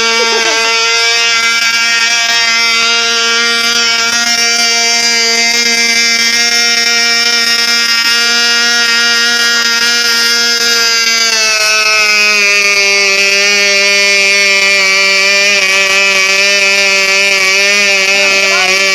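Fora 2.5 cc model diesel (compression-ignition) engine running fast with a steady, high buzz. About eleven seconds in, its pitch drops a step to a lower speed and holds there. The owner finds this engine's compression poor from a worn piston and liner.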